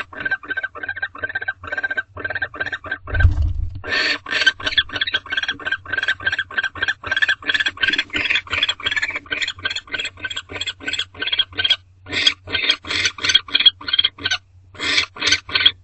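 Barn owls in a nest box giving a long run of short, raspy chittering calls, about three to four a second, with a gap and a low thump about three seconds in and breaks after twelve seconds.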